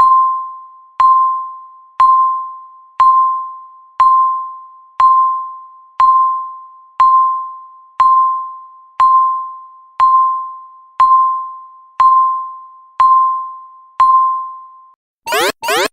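Countdown timer's electronic tick: a clear ringing tone struck once a second, each dying away before the next, fifteen in all. Just before the end it gives way to a loud alarm of rapidly repeated rising sweeps, signalling that the countdown has reached zero.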